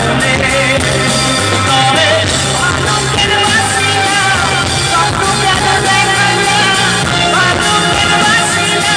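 Live band music for a Bengali love song: a wavering melody line over steady bass, playing on between the sung lines.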